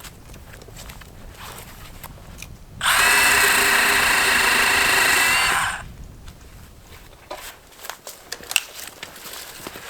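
A power saw runs at one steady pitch for about three seconds, starting and stopping abruptly, while cutting dead birch into firewood. Small knocks and rustles come before and after it.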